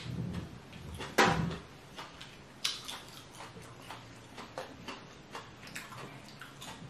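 Close-miked chewing of lobster meat: wet mouth clicks and smacks, with a louder mouth sound about a second in. Near the end, fingers pick at the cooked lobster tail meat.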